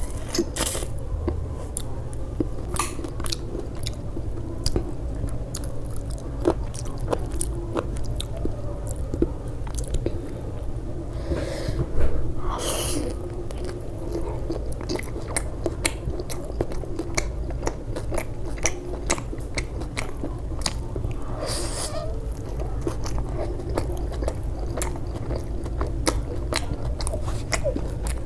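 Close-miked eating: biting and chewing with many small crisp clicks, and a louder, longer bite-and-chew noise about twelve seconds in, over a steady low hum.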